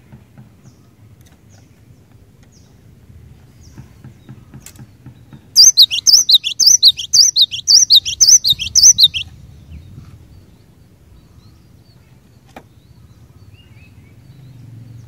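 Cinereous tit (glatik batu) singing: a loud burst of rapid, repeated high notes, about four a second, starting some five and a half seconds in and lasting about three and a half seconds, over a faint low rumble.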